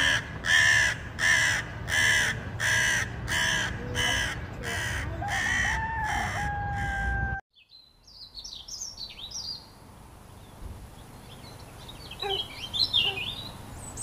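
A crow cawing: about ten harsh caws in steady succession, roughly one every two-thirds of a second, the last running together into a longer drawn-out call. It cuts off abruptly, and faint high chirps of small birds follow.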